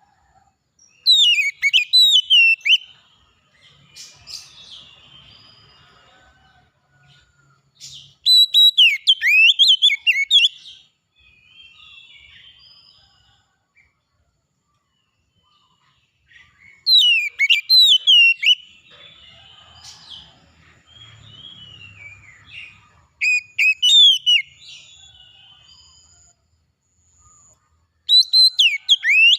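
Songbird singing in loud bursts of rapid, twisting high whistled phrases, five bursts several seconds apart, with fainter soft calls in between.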